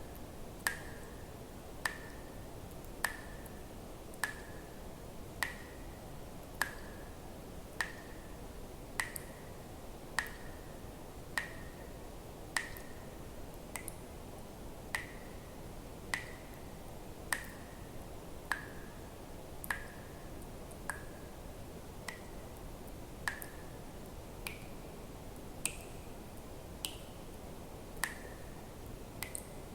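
Water drops falling one at a time into water at a steady pace, about one every 1.2 seconds, each a sharp plink with a brief ringing tone.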